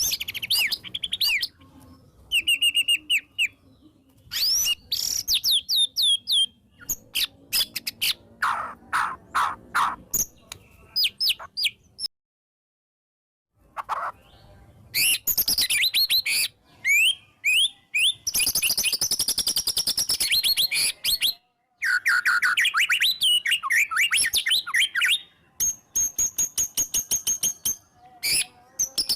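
White-rumped shama (murai batu) singing loudly: a fast, varied run of clear whistles, sweeping notes and rapid rattling trills, with mimicked calls of other birds worked in. About twelve seconds in the song cuts out to complete silence for a second and a half, then resumes.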